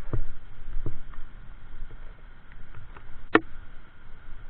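Steady rumble and wind noise of a motorcycle ride on a rough road, with a few knocks, the loudest a sharp knock a little past three seconds in.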